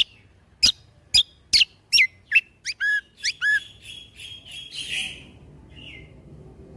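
Kecial kombo from Lombok singing a rapid string of loud, sharp, falling notes, about ten in three and a half seconds and coming faster. These are the 'tembakan' shots that bird-keepers prize. The song then trails off into softer twittering and a short rasp.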